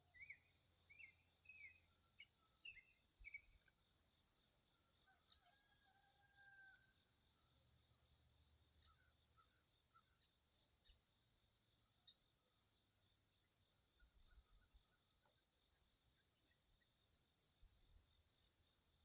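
Faint outdoor ambience: a songbird giving a quick series of short down-slurred chirps in the first few seconds, with a few scattered calls later, over a steady pulsing insect chorus.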